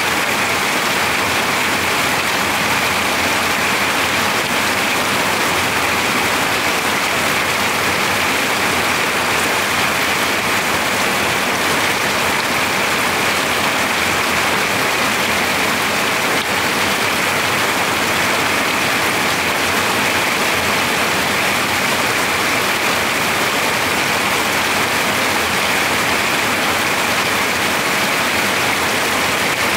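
Heavy rain falling on a metal-sheet roof: a steady, dense patter, loud and unbroken.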